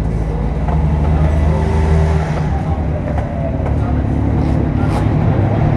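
BMW S1000RR inline-four engine running at idle, steady and loud, with a lower, rougher note from about half a second in.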